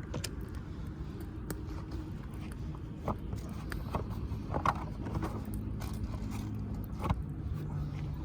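Wood fire crackling, with scattered sharp pops, the loudest about halfway through and again near the end, over a steady low rumble.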